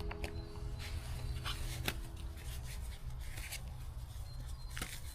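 Light rubbing and handling noises with scattered small clicks over a steady low rumble.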